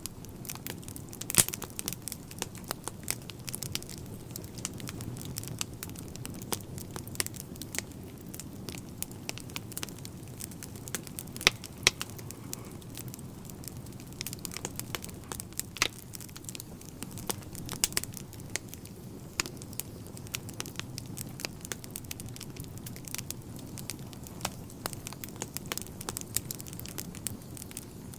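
Wood fire burning in a fireplace: a steady low rumble of flames with frequent irregular crackles and a few sharper, louder pops.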